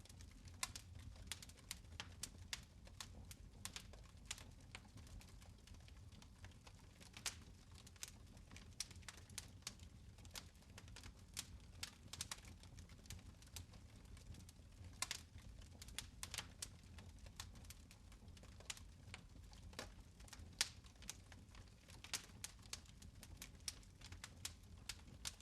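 Fireplace fire crackling faintly, with irregular sharp pops over a low steady rumble.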